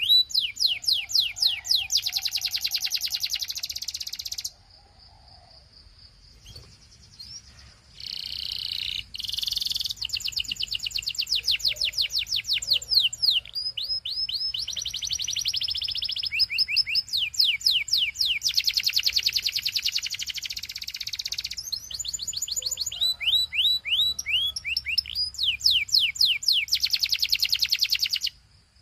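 Belgian canary singing long runs of rapid trills: fast-repeated, high, sweeping notes that change speed and pattern from one phrase to the next. It breaks off for a few seconds about four seconds in, then sings on and stops just before the end.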